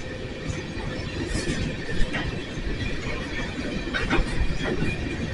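Empty coal train's hopper cars rolling slowly past on yard track, a steady low rumble of wheels on rail with faint steady squealing and a few light clanks, one sharper knock about two seconds in.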